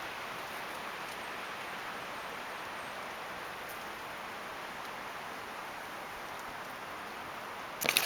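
Steady, even rushing hiss of a wind storm outdoors, with a burst of sharp crackling knocks right at the end.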